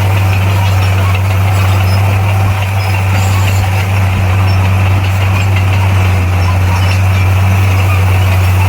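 Heavy earthmoving machine's diesel engine running steadily, a strong, unchanging low drone.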